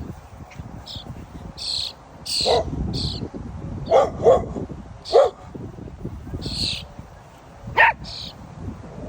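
A dog barking in short, sharp barks about four times, with several brief high-pitched squeaky cries in between as it meets a baby bird.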